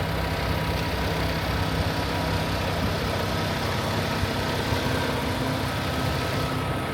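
Kenworth T680 truck's Paccar MX-13 diesel engine idling steadily.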